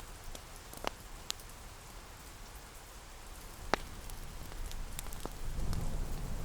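Steady rain pattering, with scattered sharp crackles and ticks through it; a low rumble swells up near the end.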